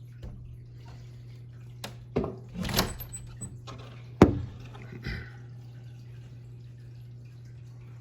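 Snow shovel at work: a scrape about two seconds in, then a sharp knock about four seconds in, the loudest sound, and a smaller hit a second later, over a steady low hum.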